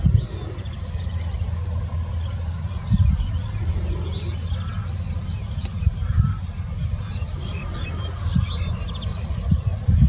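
Small birds chirping with high, short calls, including a quick run of four or five notes about half a second in and again near the end, over a steady low rumble with occasional thumps.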